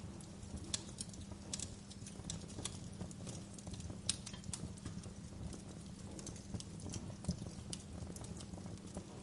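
Wood fire crackling: sharp, irregular pops and snaps, several a second, over a steady low rumble of the burning fire.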